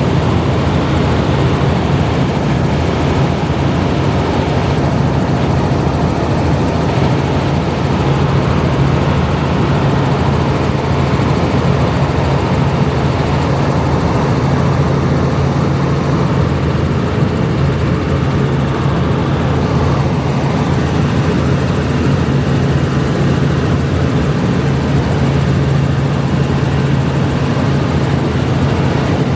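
A steady engine drone with a constant low hum that does not change.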